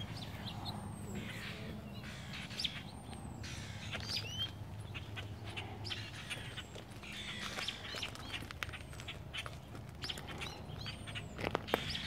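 Small birds chirping and calling in the trees: many short, high chirps and whistled notes, over a steady low hum. A few sharp clicks come near the end.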